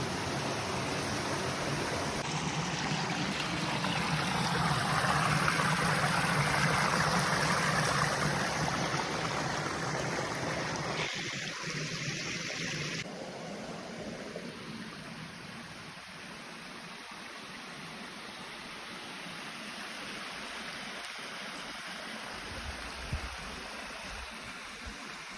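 Creek water rushing over a small rock cascade, a steady rush that is loudest in the first half, then drops abruptly to a softer flow about halfway through.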